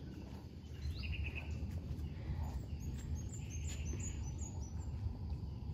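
Wild birds calling in tropical forest: a short call about a second in, then a quick run of about seven high chirps, over a steady low rumble.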